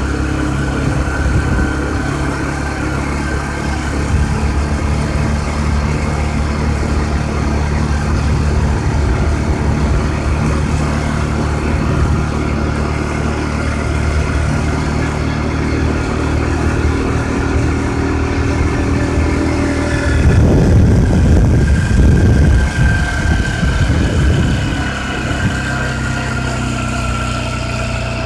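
A motor vehicle engine running steadily, with a louder, rougher low rumble for a few seconds about twenty seconds in.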